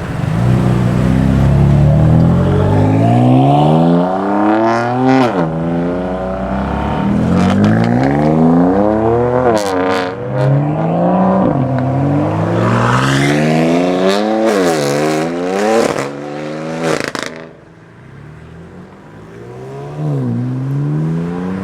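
Tuned BMW M car engines accelerating hard, the pitch climbing and then dropping sharply at each upshift several times over, with a few sharp exhaust pops around the shifts. About three-quarters through the sound eases off briefly before another car begins to pull away.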